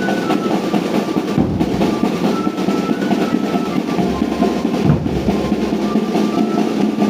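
Live drum-led folk music: drums played in a fast, rolling beat under a thin high melody line of short stepped phrases.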